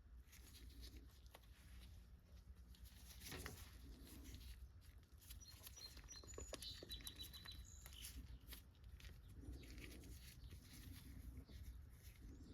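Near silence: faint scattered clicks and light scratching over a low hum, with a few short high chirps about halfway through.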